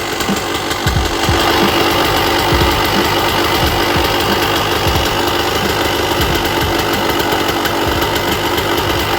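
Aprilia AF1 125's Rotax 123 two-stroke single-cylinder engine running steadily with a rapid, even firing, revived after years of standing.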